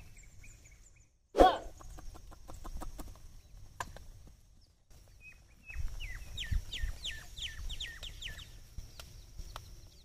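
Birds calling around the field. One loud, sharp call comes about a second and a half in, then a run of about eight short chirps, each falling in pitch, between about six and eight and a half seconds, over a low rumble.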